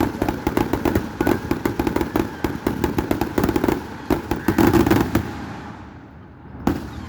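Aerial fireworks: a dense run of rapid crackling pops for about five seconds that dies away, then a single bang near the end.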